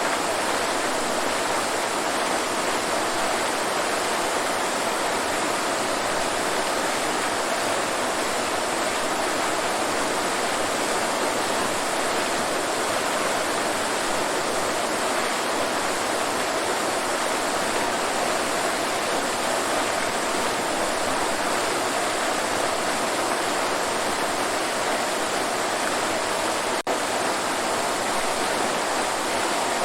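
Waterfall: a steady, even rush of falling water, with a split-second dip in level near the end.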